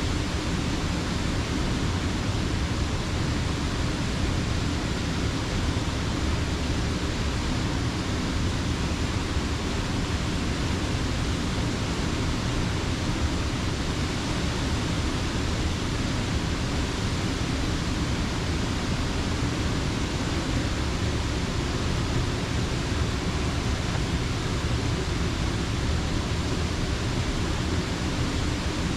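Creek water pouring over a mill dam, a steady, even rush.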